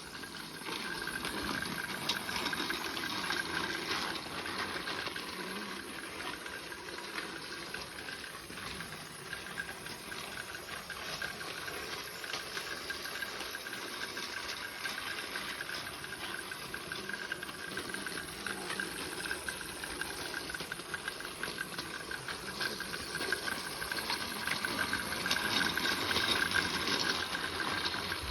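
Battery-powered Plarail toy train running on plastic track: a steady motor whir with a fine clatter of wheels over the rail joints, getting louder toward the end.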